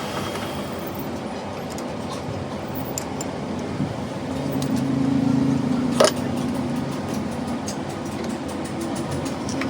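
Truck engine running, its note swelling louder around four to five seconds in, with a single sharp click about six seconds in.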